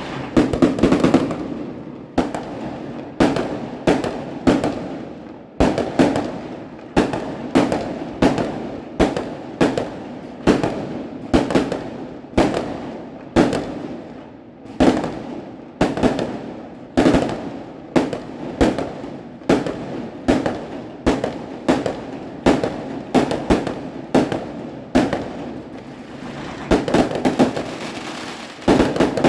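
Fireworks going off in a long series of loud bangs, about one to two a second, each trailing off in a short echoing decay.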